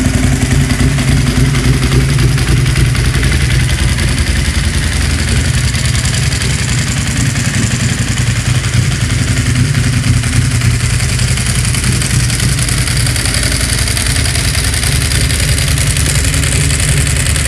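Ducati Monster S4Rs Testastretta L-twin running at a steady idle through a full Arrow exhaust system, with a loud, even exhaust note.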